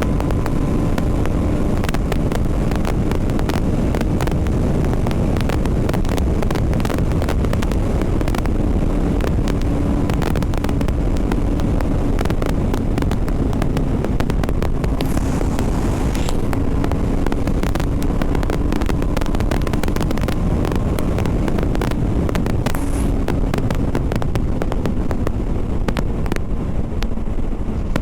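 BMW G 310 RR's single-cylinder engine running at a fairly steady road speed, its pitch drifting only slightly, with heavy wind buffeting on the helmet microphone.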